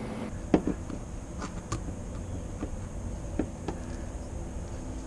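Scattered light clicks and knocks of hand tools being handled, over a low steady hum.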